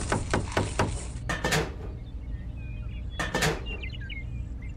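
Rapid tapping, about five taps a second, that stops sharply a little over a second in. Then two brief scraping rustles, about two seconds apart, of stiff card or plastic panels being handled and set in place, over a low steady hum.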